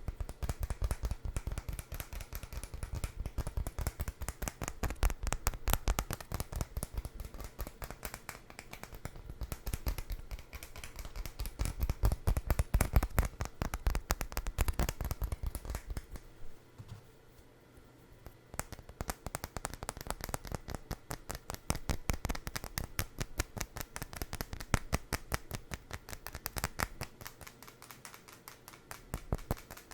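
Fast, continuous tapping and scratching on a food item, many small clicks a second, briefly easing off a little past halfway.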